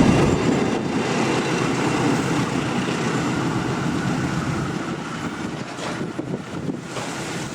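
Rumble of a passing Dhoho passenger train fading steadily as it moves away.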